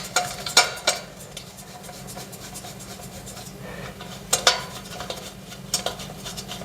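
Sharp metallic clinks and knocks of steel TV-stand frame parts and hardware being handled and fitted together. They come in a few separate hits: at the start, about half a second in, a pair around four and a half seconds in, and two more near the end.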